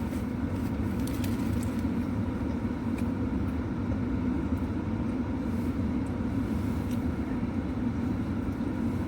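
Steady low hum of a car engine idling, heard from inside the cabin, with a few faint clicks.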